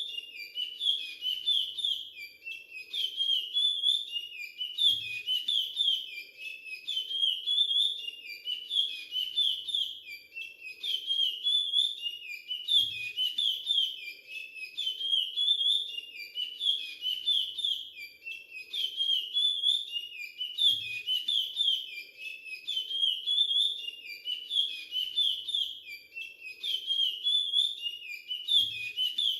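A young male curió (chestnut-bellied seed finch) singing the Timbira 'virado clássico' dialect: the same rapid whistled phrase, repeated over and over at about one phrase every two seconds. A faint low thump comes about every eight seconds.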